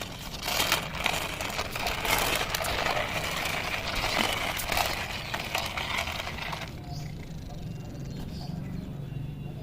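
Toy oil tanker truck rolled along the ground, its wheels rattling and clattering with many small clicks for about six seconds before stopping.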